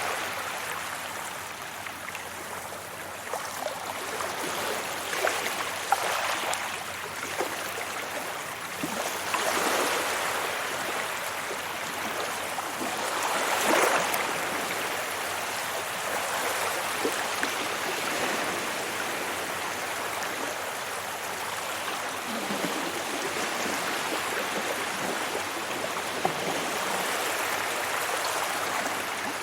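Sea waves washing onto a beach, a continuous hiss of surf that swells and ebbs, loudest as a wave breaks about fourteen seconds in.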